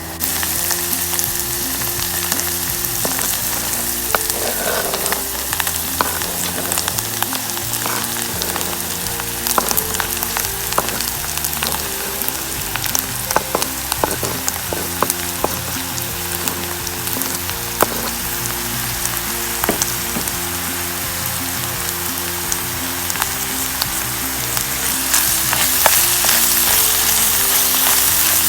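Food frying and sizzling in a pan over a campfire, with many small pops and crackles, getting louder near the end.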